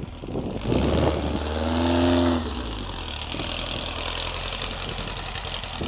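Air-cooled Volkswagen flat-four engine revving up and easing off about a second in, followed by a steady rushing noise of the car being driven.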